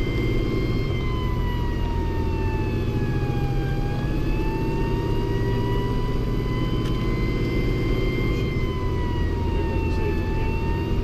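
Fire engine siren sounding a high tone that holds mostly steady, sagging in pitch and climbing back twice, over the heavy, steady rumble of the fire engine's engine on the move.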